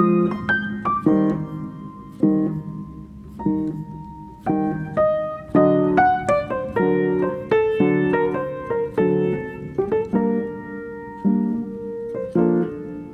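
Piano music: chords and a melody of struck notes, each fading after it is played.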